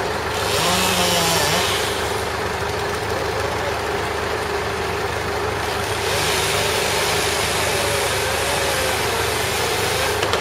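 A large engine idling steadily with a constant low hum, with gusty wind hissing over the microphone and rising and falling.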